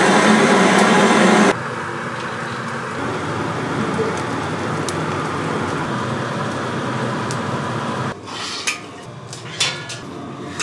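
Kitchen cooking sounds in several short cuts: a steady hiss for most of the stretch, then a few sharp clicks and clinks near the end.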